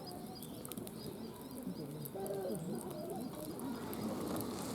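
Quiet outdoor ambience with birds calling: repeated short high chirps that fade out in the first second, and low, wavering cooing calls. A few faint crackles come from the campfire.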